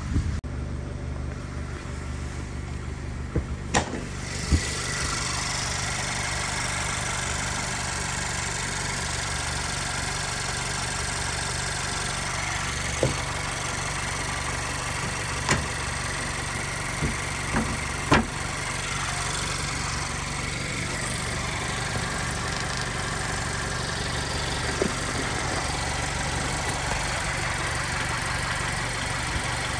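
2016 Mazda MX-5's 2.0-litre four-cylinder engine idling steadily, getting louder and hissier about four seconds in, with a few sharp knocks and clicks over it.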